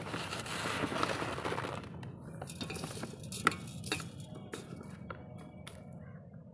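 Coarse gravel poured into a cement pot: a rush of stones for about two seconds, then scattered clinks and knocks of single pieces, with one sharper knock about halfway through.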